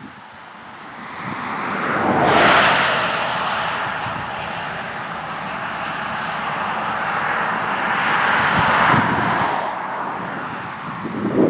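Road traffic passing on a highway: a rush of tyre and engine noise that swells to a peak a couple of seconds in, stays up, and swells again near the end as another vehicle goes by.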